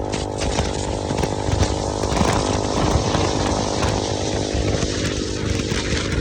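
KTM motorcycle engine running, its revs rising about two seconds in and easing off again near the end.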